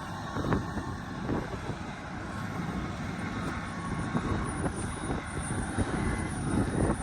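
Road roller's diesel engine running steadily, with scattered knocks and clanks over the low rumble.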